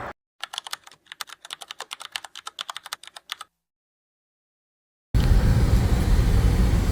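Rapid, irregular clicking, about eight clicks a second, like typing on a keyboard, lasting about three seconds and set between stretches of dead silence. From about five seconds in, steady road and engine noise inside a moving car.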